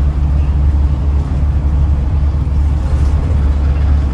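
Scania N94UD Omnidekka double-decker bus under way, heard from inside: a steady, deep engine and road rumble with no change in pitch.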